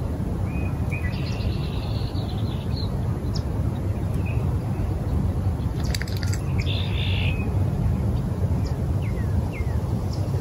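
Wild birds calling: a few short chirps, a brief trill, and a harsh buzzy call about seven seconds in, with two quick falling notes near the end, all over a steady low rumble.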